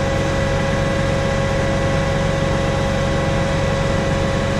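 Freightliner rollback tow truck's diesel engine idling steadily, a low rumble with a steady whine over it.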